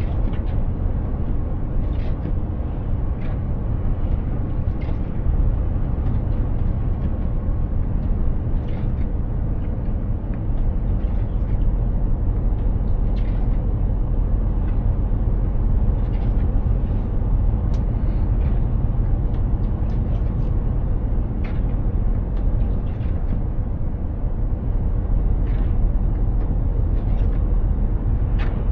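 Mercedes-Benz Actros 2763 truck driving along: steady low engine and road rumble, with scattered short light ticks every second or two.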